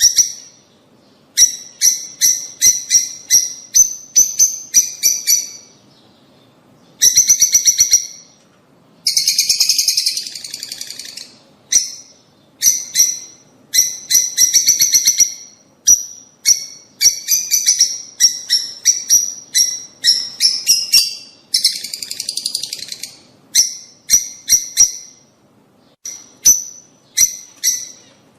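Lovebirds chirping in fast, high-pitched trains of calls, in bursts of a second or two with short pauses between them.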